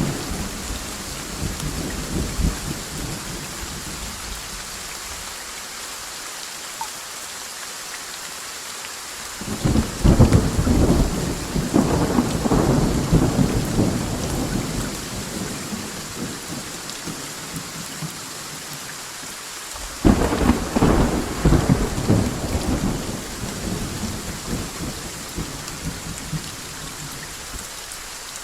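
Steady rain with thunder. A rumble fades away in the first few seconds. Two sudden, loud thunderclaps follow, about ten seconds apart, and each rolls on for several seconds before fading back into the rain.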